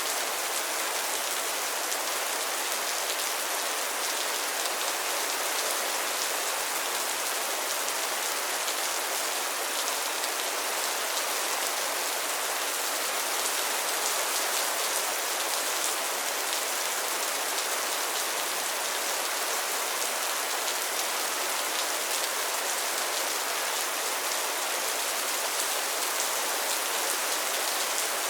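Steady rain falling on a pond and its lily pads, a dense even patter of countless small drops with no let-up.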